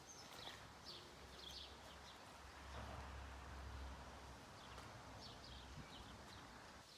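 Faint bird chirps, short and repeated, over a low rumble that rises slightly in the middle.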